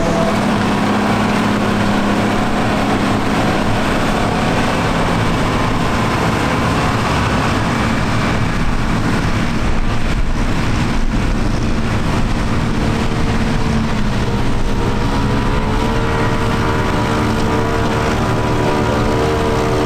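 Tractor engine running steadily, its note rising and strengthening in the last third as the engine speeds up or comes closer.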